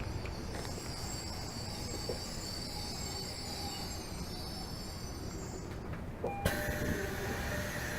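Tokyo Metro 13000 series subway train heard from inside the car, running with a high motor whine that sinks slightly in pitch as the train slows into the station. About six seconds in the whine stops, and a different sound with several steady tones takes over.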